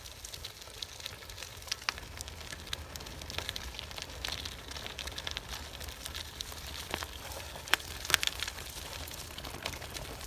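Gravel bike tyres rolling over a gravel forest track: a continuous crackling crunch with scattered sharper clicks of stones, a couple louder about eight seconds in, over a low rumble.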